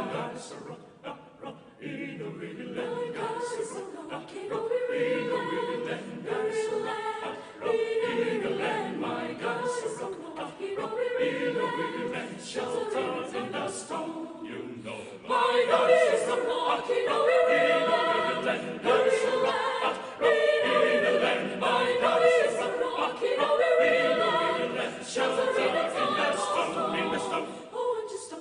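A choir singing a cappella in several parts, getting louder about halfway through.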